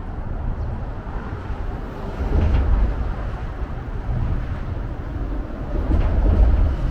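Outdoor ambience by the river, mostly a low rumble that swells twice, about two seconds in and again near the end.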